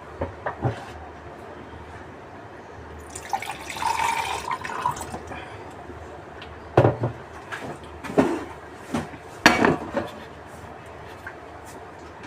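Eating and drinking noises close to the microphone: small clicks at the start, a noisy rustling stretch about three seconds in, then several short, loud sips and mouth sounds.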